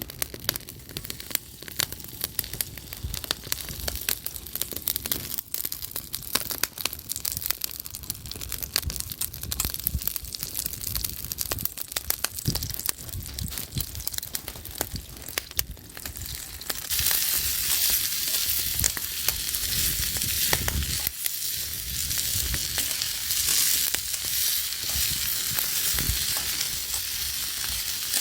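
Wood fire crackling with scattered sharp pops. About two-thirds of the way in, a loud steady sizzle starts: food frying in a hot pan over the fire.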